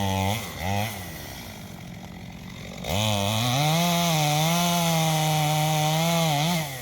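Stihl chainsaw blipped twice, idling, then held at full throttle for about four seconds with a slightly wavering pitch as it cuts into a tree being felled. The revs drop off just before the end.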